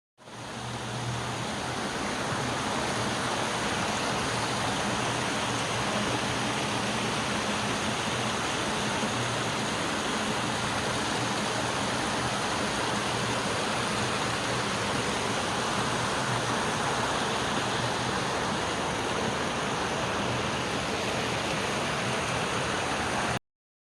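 Ramboda Falls, a waterfall: a steady, even rush of falling water. It fades in over the first second and cuts off suddenly near the end.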